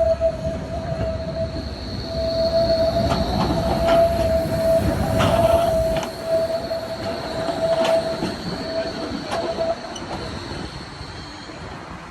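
Tram wheels squealing on curved track: a steady, piercing squeal over the rumble of the passing tram, with a few clacks from the wheels on the rails. The squeal stops about ten seconds in.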